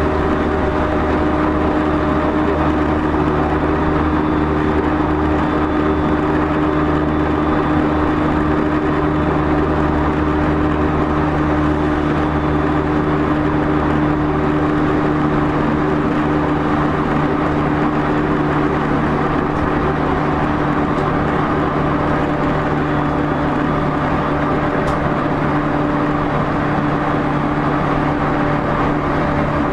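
Running sound inside an E231-0 series commuter train's motor car travelling at steady speed between stations: loud, even rumble of wheels on rail, with a steady hum from the traction motors and gears.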